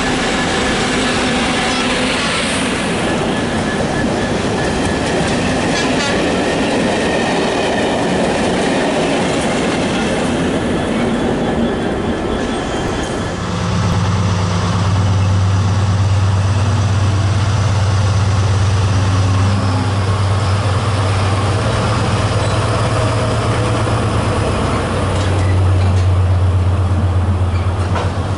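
A freight train rolling past close by, wagon wheels clattering with a thin squeal from the rails. About halfway through, a diesel locomotive's engine takes over as a deep, steady drone that swells again near the end.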